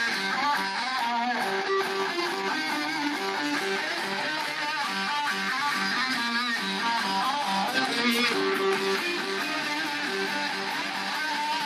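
Live heavy rock band playing, with electric guitars to the fore in a continuous dense wall of notes. It is a poor, thin-sounding audience recording with little bass.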